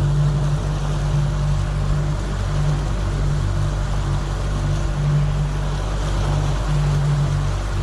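Fishing boat's engine running steadily at trolling speed: a low, slightly wavering hum under an even hiss.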